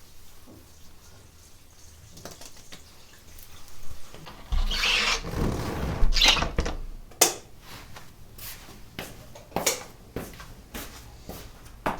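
Household handling sounds: a short hissing rush about four and a half seconds in, then a series of sharp clicks and knocks of objects being handled.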